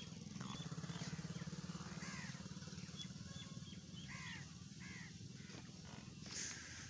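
A few short bird calls, each a quick rising-and-falling note, come about two, four and five seconds in. Under them runs a steady, low, rapidly pulsing engine hum.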